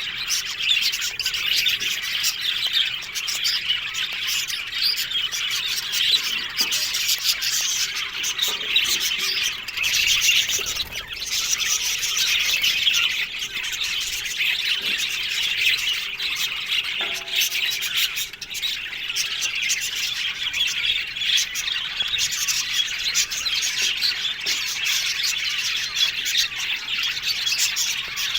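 A flock of budgerigars chattering and warbling, many birds calling over one another without a break.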